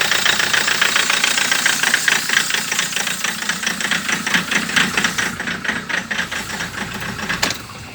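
2011 Land Rover Defender's 2.4 TDCi diesel engine idling with a fast, steady metallic rattle, then falling away sharply near the end. The rattle has not been cured by a replacement engine, and the owner suspects the original high-pressure fuel pump's regulator valve or the ECU.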